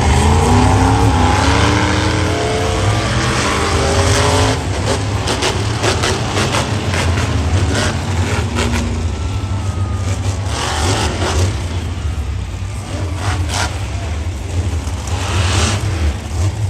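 Monster truck engine running with a heavy, steady low rumble and some rising and falling revs in the first few seconds; from about four seconds in, sharp cracks and pops sound over it.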